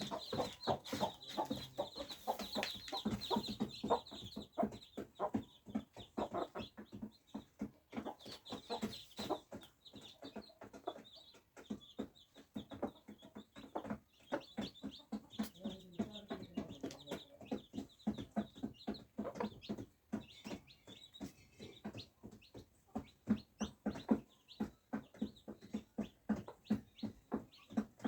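A flock of desi (Indian country) chickens clucking, many short clucks overlapping without a break, with high thin chirping over them in the first few seconds.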